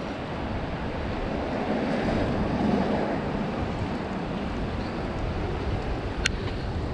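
City street ambience: a steady wash of noise that swells for a second or two about two seconds in, with one sharp click near the end.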